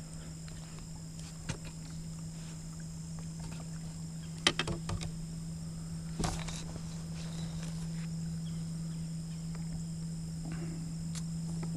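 Scattered short knocks and clicks from handling a landed bass and tackle in a kayak, a few at a time with gaps between. Under them run a steady low hum and a steady high whine.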